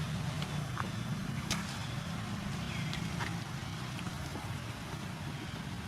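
A steady low rumble, with scattered clicks and a few brief high squeaks.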